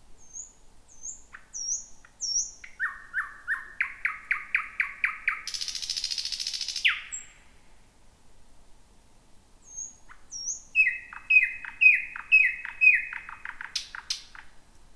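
Thrush nightingale singing: a few high, short whistled notes, then a loud run of repeated notes at about four a second that runs straight into a dry buzzing rattle lasting about a second and a half. After a pause of a few seconds comes another series of repeated, falling notes ending in a few sharp clicks.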